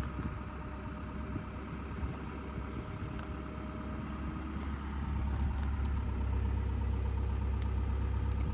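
Merlo telehandler's diesel engine running steadily as the machine is manoeuvred; it gets louder about halfway through.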